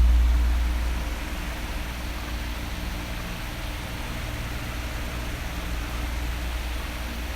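Electric fan running: a steady rush of air with a low motor hum. A louder low rumble at the start dies away within about a second.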